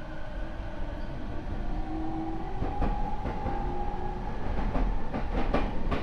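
Inside a Rinkai Line 70-000 series electric train under way: the Mitsubishi IGBT inverter and MT73 traction motors give steady, stepping tones. The wheels click over rail joints, the clicks coming closer together toward the end as speed builds. This car's motor noise is unusually loud from the start.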